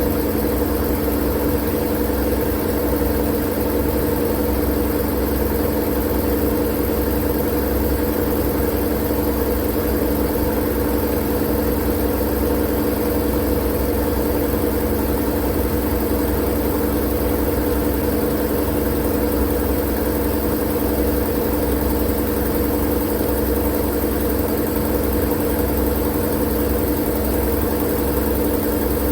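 Steady, unchanging machine-like drone used as white noise: a low hum with several steady tones under an even hiss, with no breaks or changes.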